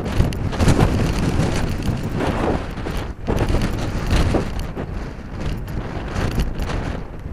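Strong gusting wind buffeting the microphone, a rumbling rush that surges and eases every second or so.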